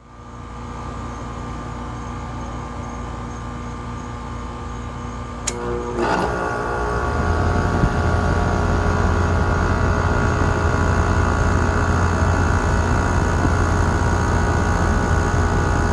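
2010 WeatherKing Value 1.5-ton air conditioner starting up: a steady hum, then a sharp click about five and a half seconds in. Its Copeland scroll compressor and condenser fan then come on and settle within a couple of seconds into a louder, steady, low drone.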